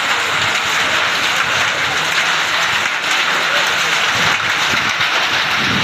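Hailstones pelting down in a loud, dense, steady clatter.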